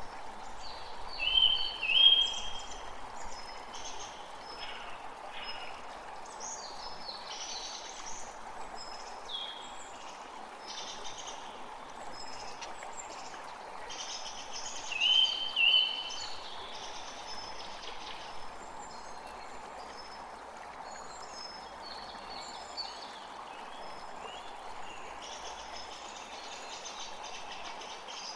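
Many birds chirping and calling over a steady rush of flowing water. A louder short call comes twice in quick succession near the start and again about halfway through.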